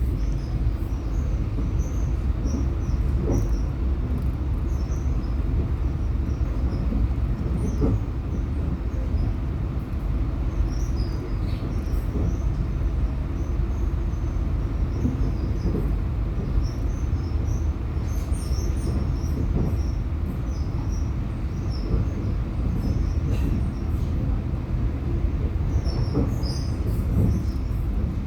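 Passenger train running along the track: a steady low rumble of wheels on rails, with scattered faint clicks and brief high chirps.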